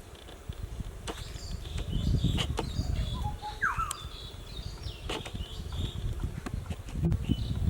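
Birds calling: one call slides down in pitch about three and a half seconds in, with shorter high chirps around it. Scattered sharp clicks and an uneven low rumble run underneath, louder about two seconds in and again near the end.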